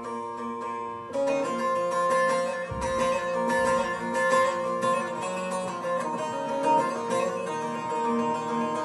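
Instrumental improvisation on a plucked string instrument, with notes picked in quick runs; about a second in the playing gets louder and fuller.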